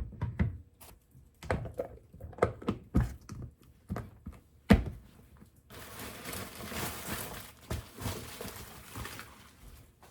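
Several light knocks and taps of things being handled and set down, one sharp, louder knock about five seconds in, then a few seconds of steady hissing rustle that stops near the end.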